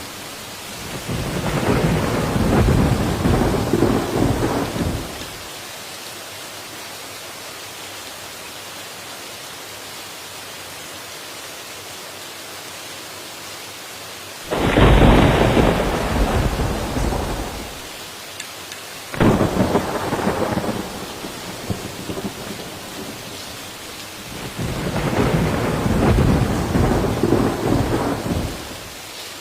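Steady rain hiss with four long peals of thunder. The first swells in about a second in, a sharp clap starts about halfway, another sudden one follows a few seconds later, and a last one swells and rolls away near the end.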